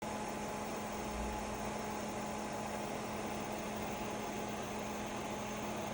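Small desktop evaporative cooling fan running steadily, an even rush of air with a steady low hum.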